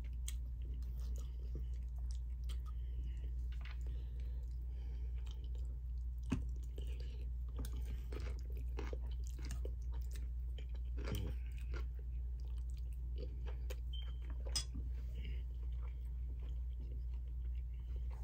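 A person chewing steak and rice, with irregular wet mouth clicks and smacks and two sharper clicks about six and fourteen seconds in, over a steady low hum.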